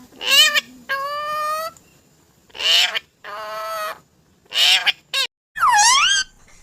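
A parrot calling in a run of about six short squawks and pitched whistly calls with pauses between them. The last call swoops down and back up in pitch.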